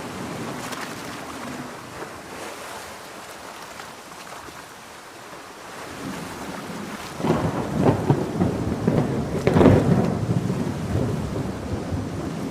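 Steady heavy rain, with a rolling peal of thunder that swells in about seven seconds in, crackling and loudest a couple of seconds later.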